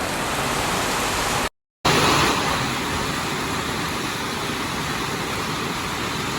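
Steady hiss of rain falling. The sound cuts out completely for a moment about one and a half seconds in, then the rain hiss carries on.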